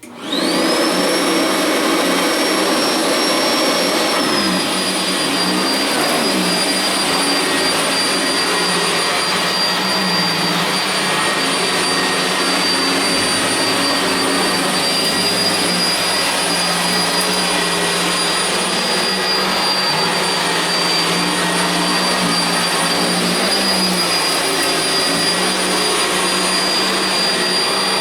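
Sanitaire SC679j upright vacuum cleaner switching on, its motor whine climbing quickly to a high steady pitch. The pitch dips slightly about four seconds in, and the vacuum then runs steadily as it cleans carpet.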